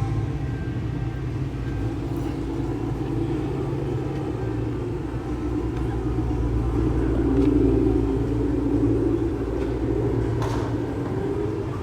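A car engine running at idle, steady and low-pitched, growing a little louder about seven seconds in.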